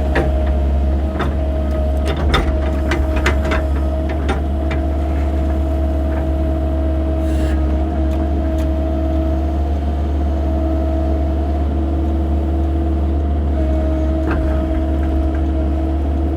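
Excavator engine running steadily with a steady whine from the hydraulics, while the toothed bucket digs carefully toward a buried water line. Sharp clicks and knocks come several times in the first few seconds and once more near the end.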